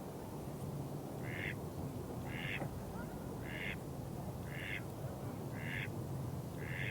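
An animal calling: short nasal calls repeated evenly about once a second, six times, over a steady low background.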